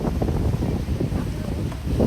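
Wind gusting against the microphone aboard a Venice water bus (vaporetto), over the boat's steady low rumble.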